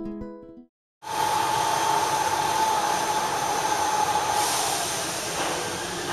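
Electric train running into the station: a steady rolling noise with a high steady whine over it that dies away about five seconds in. Before the train sound begins there is the fading tail of acoustic guitar music and a moment of silence.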